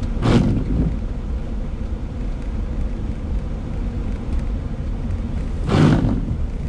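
A car rolling slowly over a slush-covered street, heard from inside the cabin: a steady low road rumble, with two brief swishes about five and a half seconds apart.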